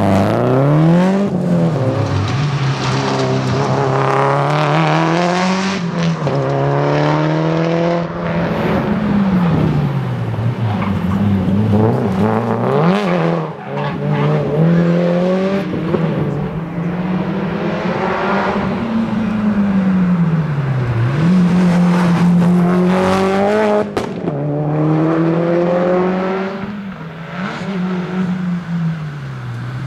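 Subaru WRX STI's turbocharged flat-four engine driven hard at rally pace, its pitch climbing and dropping again and again as it accelerates through the gears and backs off.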